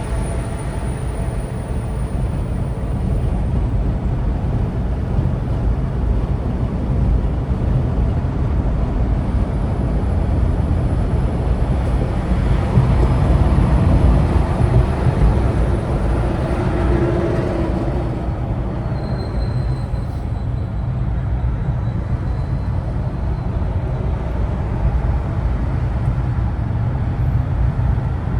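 Vehicle engine and road noise, a steady low rumble that swells for a few seconds around the middle and then eases.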